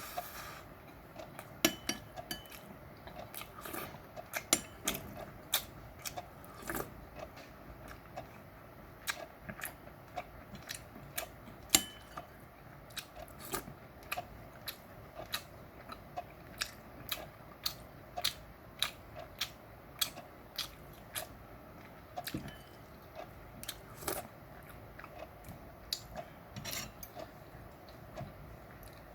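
Close-miked eating sounds: food being chewed and bitten, with a steady run of short sharp clicks, about one or two a second, and occasional clinks of cutlery against a dish.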